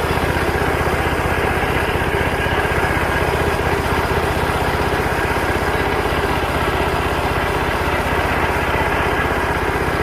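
Small tractor's engine running steadily with a fast, even firing beat.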